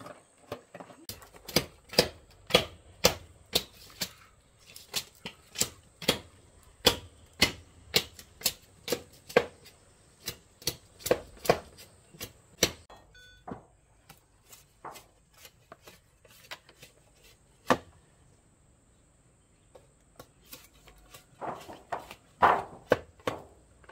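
Repeated sharp chopping or knocking strikes, about two a second, keeping up for roughly twelve seconds. They then thin out to scattered blows, fall quiet, and come back as a quick cluster near the end.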